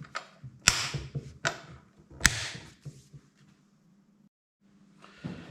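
Sharp clicks and knocks of a chainsaw's top cover being fitted and handled, with three louder knocks in the first two and a half seconds.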